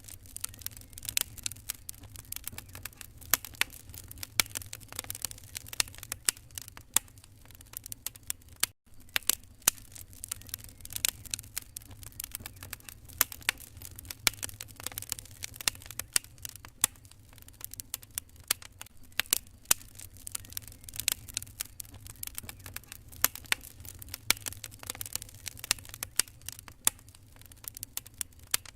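Wood fire crackling, with irregular sharp pops and snaps over a low steady rumble of the burning fire. The sound drops out briefly about nine seconds in.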